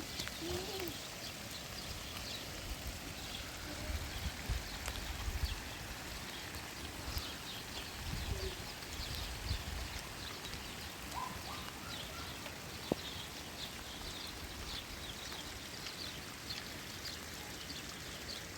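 Steady heavy rain, with many small drops ticking and dripping. There are a few low rumbles about four and eight seconds in, and a single sharp click near the end.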